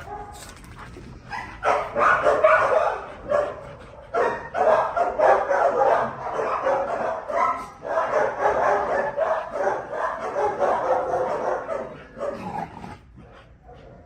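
Dogs barking and yipping almost without pause for about ten seconds, with two short lulls, then dying down near the end.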